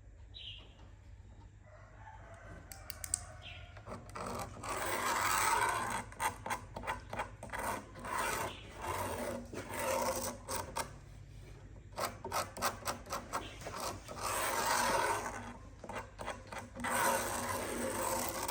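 Rough rubbing and scraping strokes worked by hand on a wooden surface. The strokes come in quick irregular runs, with a few longer drawn strokes, and start about four seconds in.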